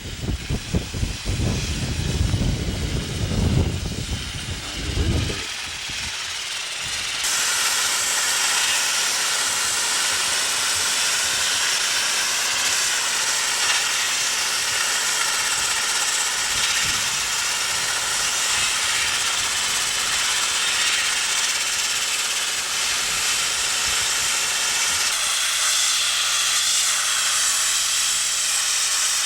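Uneven low rumbling for the first five seconds, then a steady, loud hiss that starts about seven seconds in and holds.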